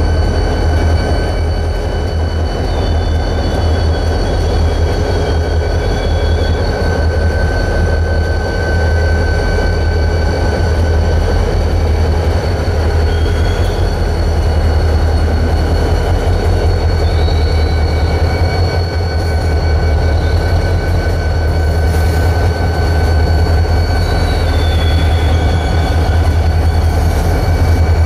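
Freight train rolling past: a steady, loud rumble of railcars on the rails. Several high-pitched wheel squeal tones are held throughout, and a few shorter squeals slide up and down in pitch now and then.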